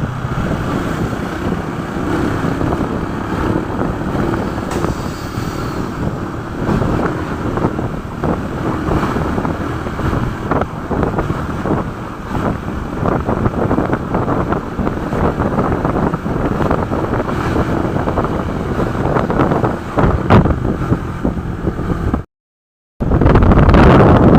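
Wind buffeting the microphone of a moving motorcycle, mixed with engine and road noise. The sound cuts out for under a second near the end and comes back louder.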